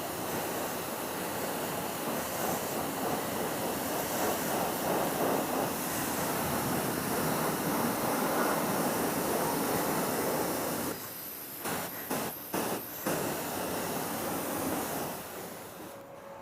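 High-pressure water jet rinsing a motorcycle: a steady hissing spray that breaks into several short on-off bursts about eleven seconds in, then runs on and fades near the end.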